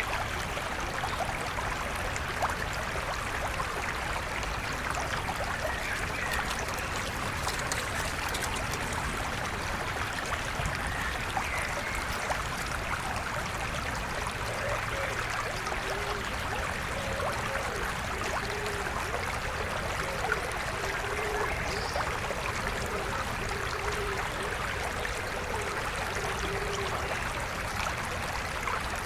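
River water flowing steadily, an even sound with no pauses. A faint short low call repeats every second or so through the second half.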